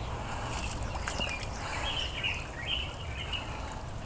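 Birds chirping: a string of short calls, most of them between about one and three and a half seconds in, over a steady low rumble.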